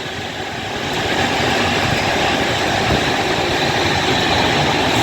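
Electric multiple-unit train at the platform, a steady hum and rush of its running equipment that grows a little louder about a second in.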